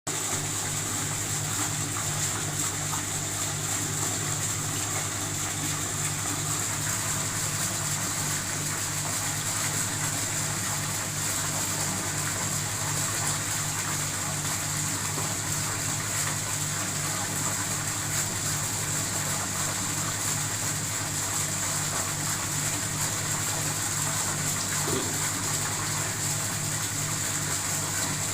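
Indoor decorative waterfall running: steady falling and splashing water, with a low pulsing hum underneath.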